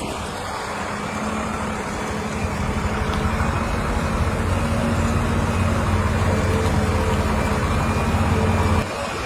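Heavy diesel engine of earthmoving machinery running steadily, working louder over the first few seconds, then dropping off suddenly near the end.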